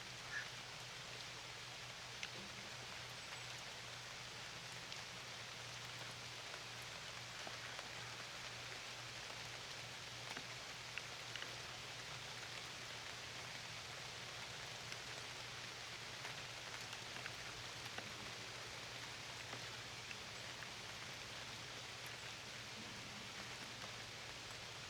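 Steady rain falling, with scattered single drops ticking sharply through the hiss, over a steady low hum.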